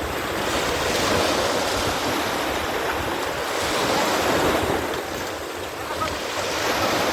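Wind buffeting the microphone over rushing seawater from a rough sea, a dense steady noise that swells and eases every few seconds.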